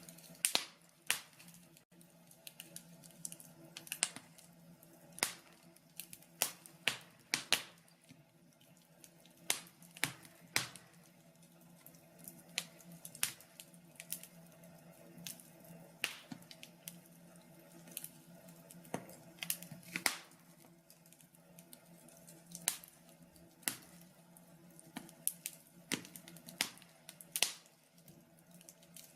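Wood fire crackling in a log burner: sharp, irregular pops and snaps, one or two a second, over a faint steady low hum.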